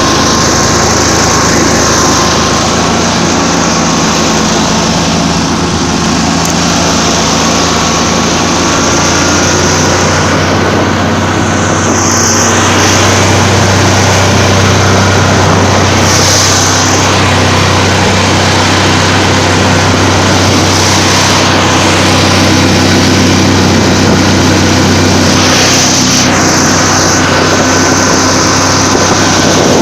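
Buran 4T snowmobile engine running steadily under way, loud and close, getting a little louder about twelve seconds in.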